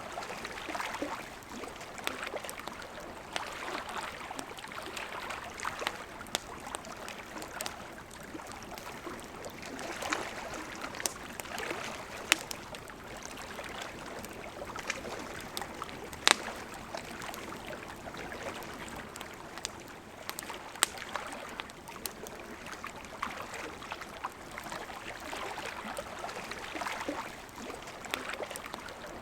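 Campfire crackling, with sharp pops every few seconds, over the steady rush of a flowing river.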